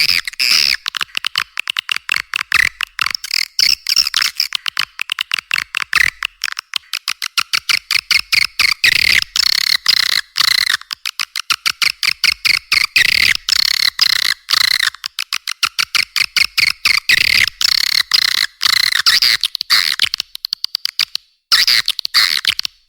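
Swiftlet lure call recording: a dense, rapid stream of high chirping twitters and clicks from edible-nest swiftlets, the sound played to draw swiftlets into a nesting house. It breaks off briefly a couple of times near the end.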